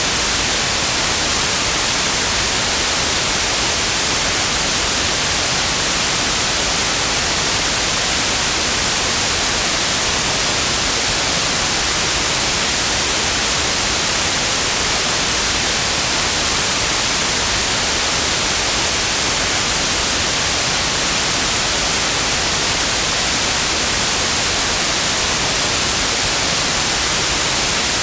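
Steady, unchanging white noise: an even hiss across the whole range, brightest in the high end, with no breaks or changes.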